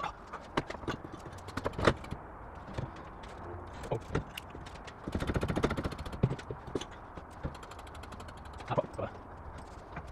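Hand tools knocking and clanking while the differential is being fitted, with scattered sharp knocks and a run of rapid, evenly spaced clicks about five seconds in.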